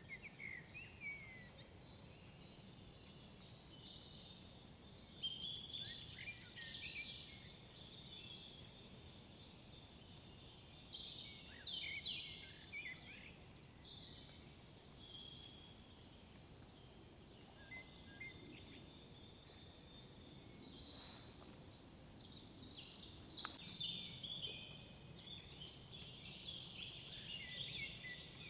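Several songbirds singing in a forest, overlapping phrases and whistles, one bird repeating a short high trilled phrase every several seconds, over a faint low background hum.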